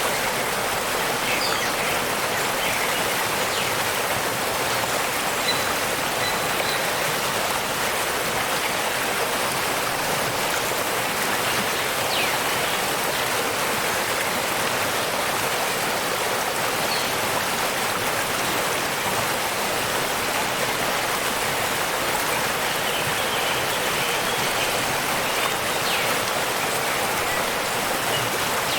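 Waterfall: a steady, unbroken rush of falling water, an even hiss with little low rumble.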